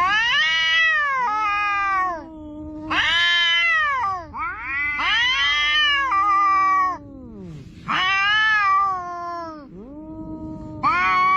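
Two cats yowling at each other in a quarrel: about five long, drawn-out calls that rise and fall in pitch, trading back and forth with short gaps and overlapping once in the middle.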